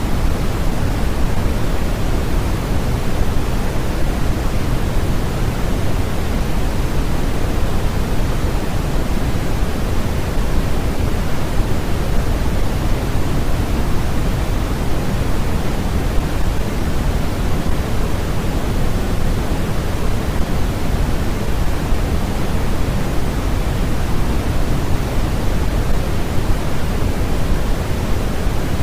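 Steady synthetic white noise, an even, unbroken hiss that is heavier in the low end than at the top. It does not change at all.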